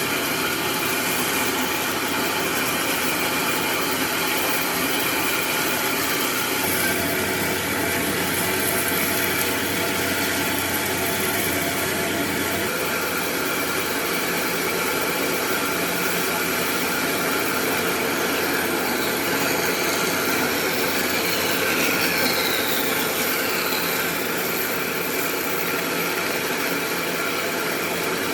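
A power tool running steadily, with a faint falling whine around two-thirds of the way through.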